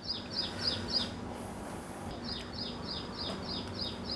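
A small bird calling over and over, a quick falling chirp about three times a second, with a pause of about a second partway through.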